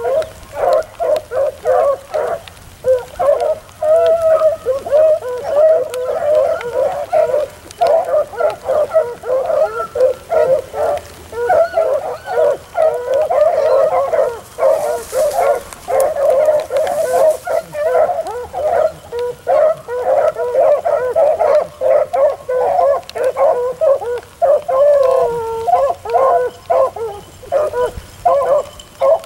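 A pack of beagles baying together as they run a rabbit's track, many overlapping voices going on without a break.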